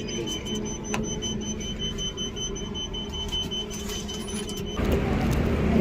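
A high-pitched electronic beep pulsing rapidly, like an alarm, over a low background hum; it cuts off abruptly near the end as louder noise takes over.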